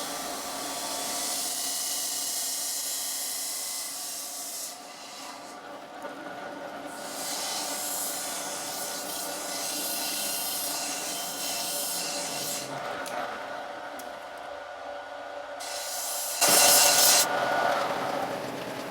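Metal lathe running with a steady whine, with long stretches of hiss from the cutting pass and a short louder burst near the end.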